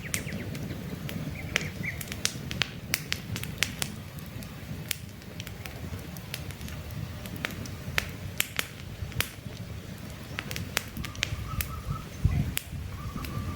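Wood campfire crackling, with sharp snaps and pops at irregular intervals over a low, steady rush of flames. Birds chirp faintly in the background, with a short run of chirps near the end.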